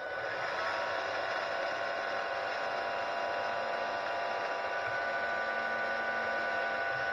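Electric brush-drive motor of a VAX vacuum cleaner floor head, connected up on test and running steadily with a whine of several steady tones; it still drives after its melted bearing housing was cleaned out.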